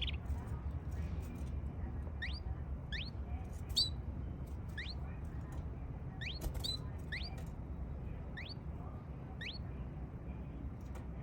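Canary giving short, rising chirp calls, about nine of them less than a second apart, over a low steady rumble.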